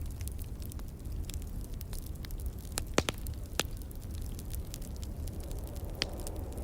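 Wood fire crackling in a fireplace: scattered small snaps with a few sharper pops, two of them near the middle and one near the end, over a steady low rumble.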